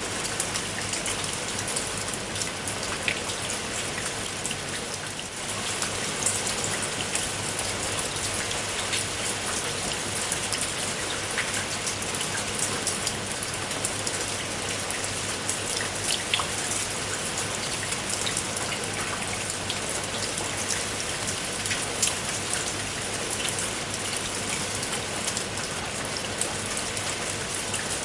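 Steady rain falling, with the dense hiss of the downpour and many individual drops pattering sharply on a surface.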